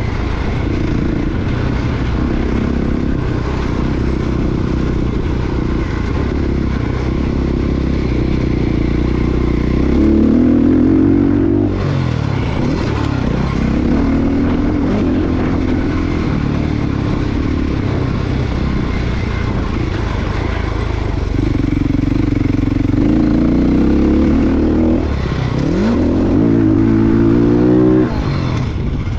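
Motocross dirt bike engine under way, revving up and backing off again and again as it is ridden round the track. It climbs steeply in pitch and cuts off sharply about a third of the way in and again near the end.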